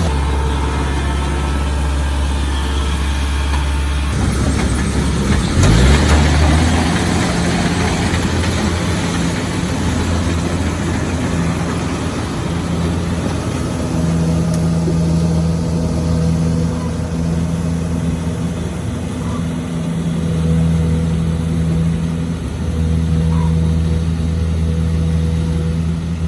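Rice combine harvester running steadily with a deep engine hum, getting briefly louder about six seconds in.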